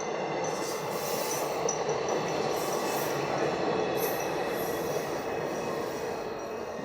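Passenger express train passing at speed: a steady rush of wheel and rail noise with thin high steady tones over it, easing slightly near the end.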